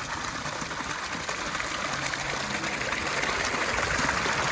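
Water of a pondless waterfall cascading and splashing in a steady rush that grows a little louder toward the end.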